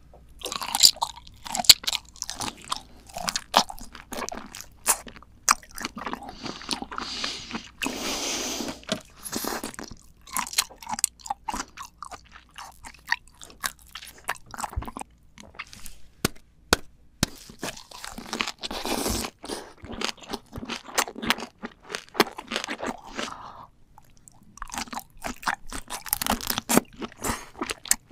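Close-miked chewing and crunching of large red shrimp: many sharp wet clicks and smacks as the shell and flesh are bitten and chewed, with a few longer sucking sounds at the shrimp heads.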